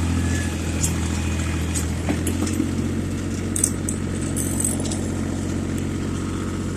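Yanmar compact tractor's diesel engine running steadily, with scattered light metallic clinks and rattles.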